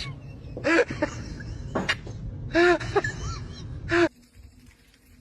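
Parrot squawking: three loud, short calls rising and falling in pitch, about a second in, midway and about four seconds in, over a steady background noise that drops away after the last call.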